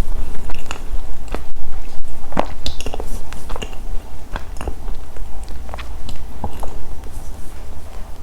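Close-miked eating: biting, crunching and chewing chocolate snacks, with irregular small crackles. A steady low hum runs underneath from a poorly connected microphone.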